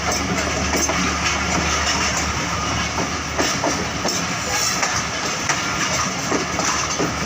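Moving passenger train: a steady rumble of wheels on track with irregular clacks and knocks.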